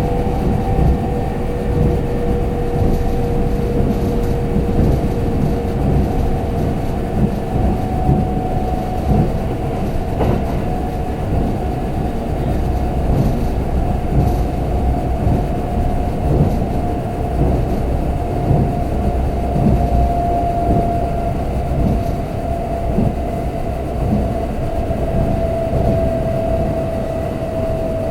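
Kintetsu limited express electric train running, heard from inside the passenger cabin: a dense rumble of wheels on the track with a steady motor whine whose pitch drifts slightly lower.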